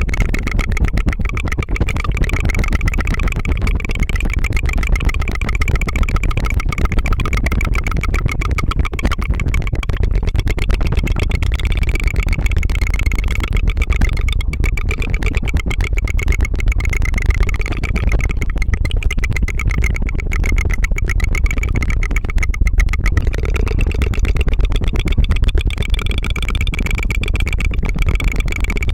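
Tongue fluttering close to the microphone: a continuous, very fast trill of tiny tongue taps that makes a steady buzzing flutter.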